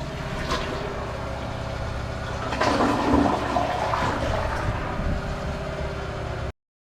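Toilet flushing, a rush of water that swells about two and a half seconds in, over a steady low motor hum; the flush checks that the blockage is cleared. The sound cuts off abruptly near the end.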